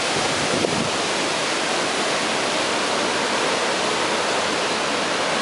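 Heavy hurricane rain and wind, a steady hiss.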